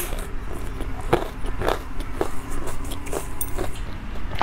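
Close-miked mouth sounds of a person eating a cream-filled pastry: chewing with a few irregular wet clicks and lip smacks.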